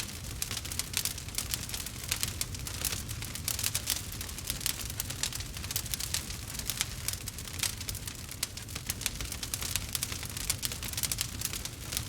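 Campfire burning, with dense, irregular crackles and pops over a low steady rumble of the flames.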